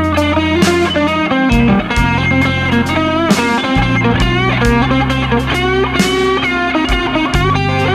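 Improvised guitar lead playing a melodic line with bent notes over a backing of bass and drums.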